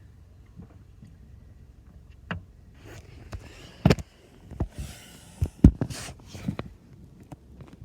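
Car wash attendants hand-drying the car with towels: a run of rubbing and wiping against the body and glass with several sharp knocks and thumps, bunched in the middle few seconds.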